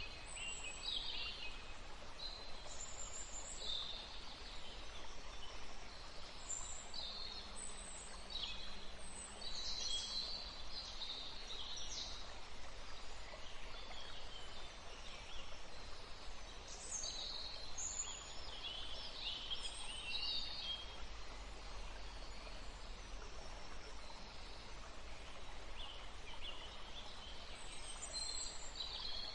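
Small songbirds calling in a forest: quick high chirps and short trills, busiest in the first dozen seconds and again around the middle, over a steady background hiss of natural ambience.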